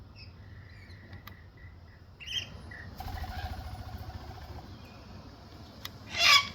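Wild birds calling: a few faint short chirps and a held note, then one loud, brief harsh call near the end.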